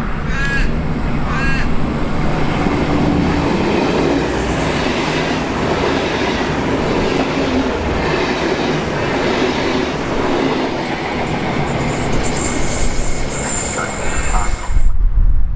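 V/Line passenger train running past on the rails: a steady loud rush of wheels on track, with a high wheel squeal in the last few seconds. Near the end the rush drops away and wind buffets the microphone.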